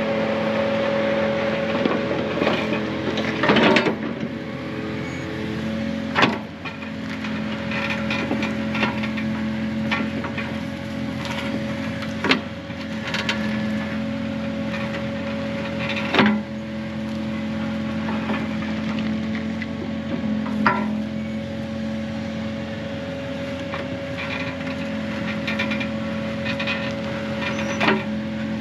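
Excavator's diesel engine running steadily while digging, with a few sharp knocks from the bucket striking the ground.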